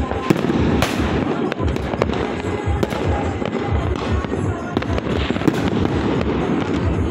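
Fireworks going off in quick succession, sharp bangs and crackles, over loud music with a steady pulsing beat.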